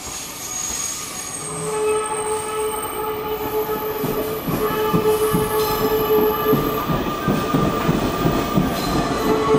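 Hanshin 9300 series electric train rolling slowly past over station points, its wheels squealing with a steady high tone. From about four seconds in, a rhythmic clatter of wheels over rail joints and points joins in, growing louder as the cars pass.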